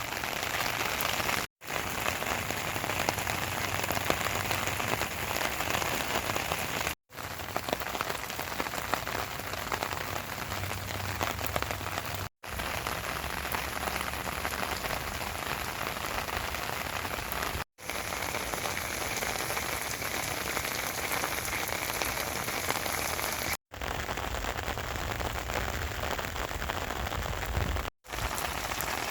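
Steady rain falling, an even hiss of drops on surfaces. It is broken by brief drops to silence about every five seconds.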